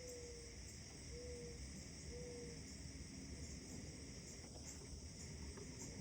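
Faint early-morning outdoor ambience: a steady high insect trill runs throughout, with three short, low whistled bird notes about a second apart in the first half, over a steady low rumble.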